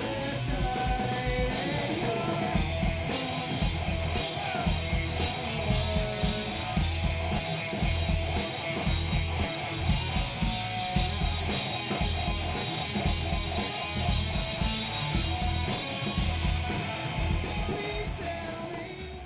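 A live rock band playing 90s rock: drum kit, bass and electric guitars, with vocals.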